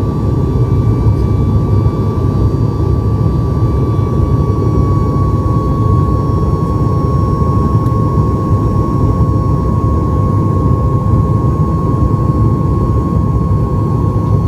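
Boeing 737 MAX 8 cabin noise from an economy window seat: a loud, steady low rumble of airflow and the CFM LEAP-1B engines, with a thin steady whine that dips slightly in pitch a few seconds in.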